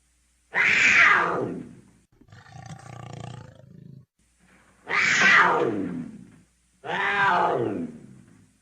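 Puma (cougar) calls: three loud cries, each starting high and sliding down in pitch. Between the first and second cry there is a quieter, rougher sound.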